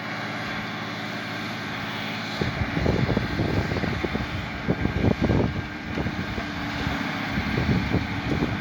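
Tractor engine pulling a plough, a steady low drone. From about two seconds in, gusts of wind buffet the microphone with irregular low rumbles that become the loudest sound.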